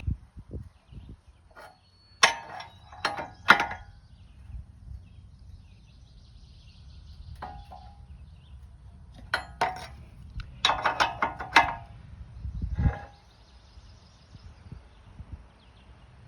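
Sharp metallic clinks and clicks from a wrench working the leveling bolts on a sawmill's steel bunks. They come in three short clusters, a couple of seconds in and twice again about ten seconds in, over a faint outdoor background.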